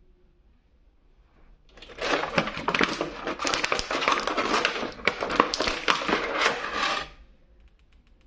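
Toy packaging being handled, a dense crinkling and crackling with many sharp clicks that starts about two seconds in and stops suddenly some five seconds later.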